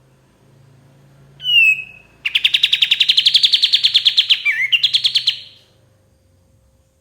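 Kapas tembak song: a short down-slurred whistle, then a loud, fast, even trill lasting about three seconds, with a brief hitch near its end.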